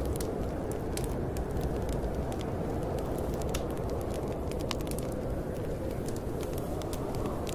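Wood fire crackling with many scattered sharp pops over a steady rushing snowstorm wind.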